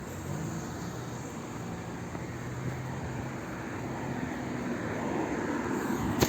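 Traffic noise: a low engine hum with road noise that grows steadily louder, as of a vehicle approaching.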